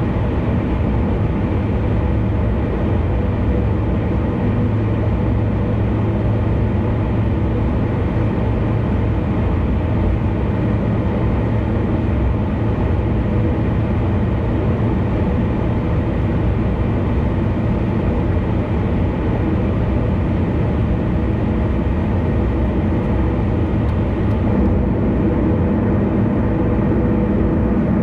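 A car travelling at expressway speed: steady tyre and engine noise, mostly low-pitched, with no change in level.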